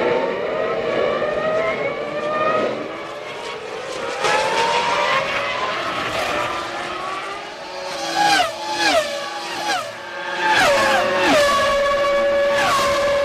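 Several 2001 Formula One cars' 3-litre V10 engines running together at high revs: the pitch climbs as they accelerate, then drops in quick steps about eight seconds in and settles into a held note near the end.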